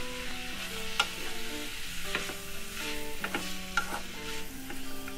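Cauliflower rice and kimchi sizzling in a nonstick wok while a wooden spatula stirs them, knocking sharply against the pan a few times. Soft background music plays under it.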